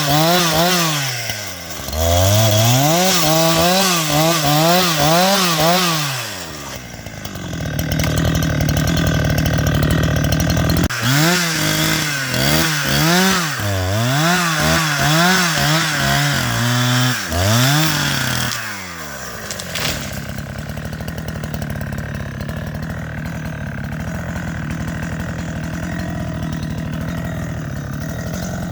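Chainsaw engine revving up and down in repeated surges about once a second, briefly dropping back partway through. After about two-thirds of the way it settles to a steady, quieter idle.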